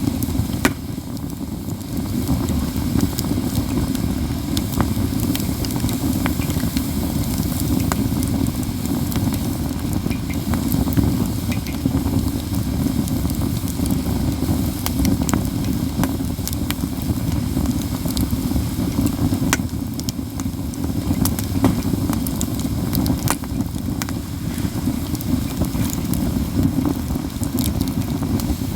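Katsura wood burning in a campfire: frequent crackles and sharp snapping pops over a steady low rumble.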